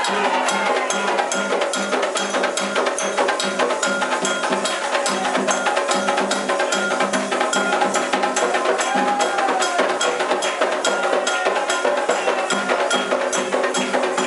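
Candomblé ritual music: hand drums and a struck bell keep a steady, quick rhythm, with voices singing over them.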